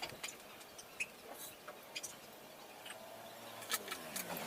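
Faint, scattered clicks and light taps of hand tools being handled during motorcycle chain work. Near the end a pitched sound slides down in pitch.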